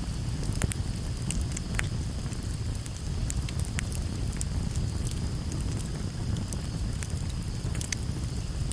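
Campfire burning, with a steady low rumble and frequent sharp, irregular crackles and pops from the burning wood.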